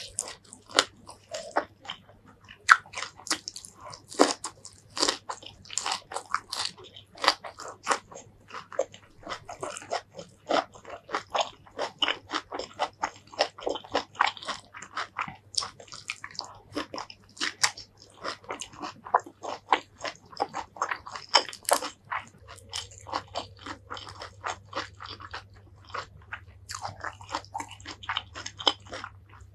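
Close-miked eating: a person chewing and biting crunchy raw green vegetables dipped in shrimp-paste chilli sauce, with rice, making sharp crunches two or three times a second.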